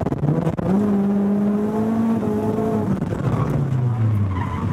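Car engine heard from inside the car during a downhill run. The note holds steady, steps up about a second in, drops a little past two seconds, then falls away over the last couple of seconds.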